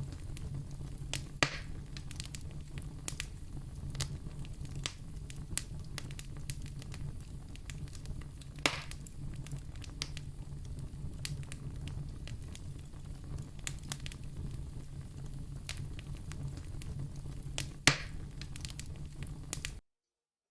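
Wood fire crackling in a fireplace: a steady low rumble of the flames under a stream of small crackles, with three sharp pops from the burning logs. The sound cuts off suddenly near the end.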